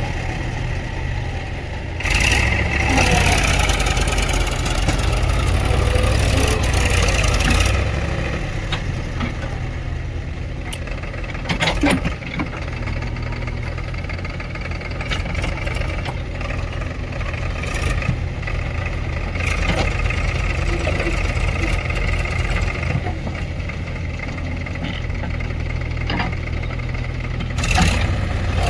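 Diesel engines of a backhoe loader and tractors running while mud is loaded, louder for several seconds near the start, with a sharp knock about twelve seconds in.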